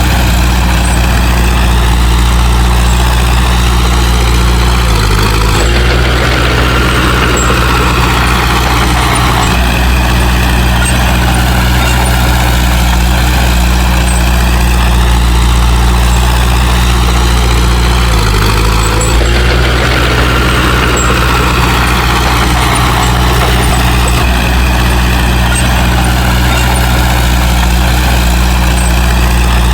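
Bulldozer's heavy diesel engine running steadily under load, its note shifting briefly about five seconds in and again around eighteen seconds.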